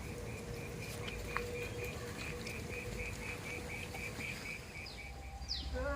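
A high chirping call pulsing steadily about three times a second over a low rumble. About five seconds in, a second caller starts a series of short, quick chirps that fall in pitch.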